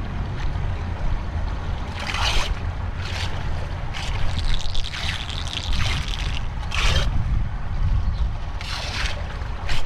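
Floodwater splashing and sloshing in irregular bursts, five or so over several seconds, over a steady low rumble.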